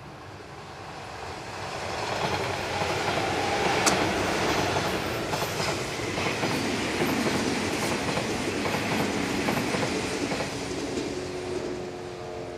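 Odakyu Type 5000 and Type 3000 electric commuter train running past close by: a loud, steady rumble of wheels on rail that builds over the first couple of seconds as it draws near. Clacks of the wheels over the rail joints run through it, the sharpest about four seconds in.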